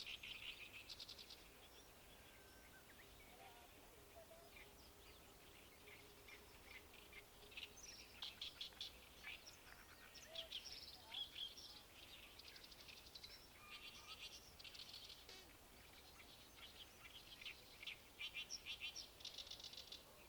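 Birds singing faintly in bouts of quick, rattling runs of high chirps, with short pauses between bouts.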